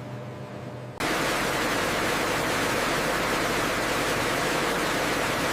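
A steady, loud rushing noise that starts suddenly about a second in and holds even, over a faint hum.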